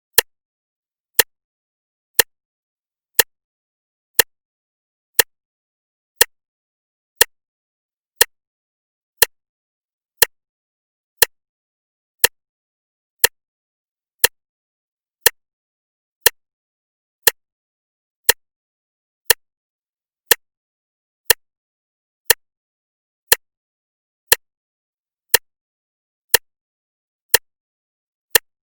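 Clock ticking once a second: sharp, evenly spaced clicks with silence between them.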